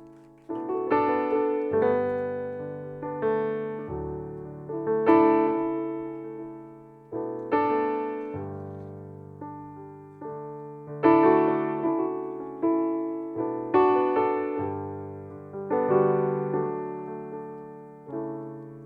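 Solo piano music: slow chords struck one after another, each left to ring and fade.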